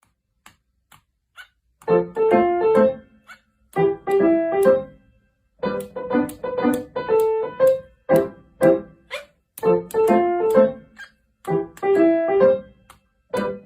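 Piano music: a short melodic phrase of a few notes, repeated about every two seconds, starting about two seconds in.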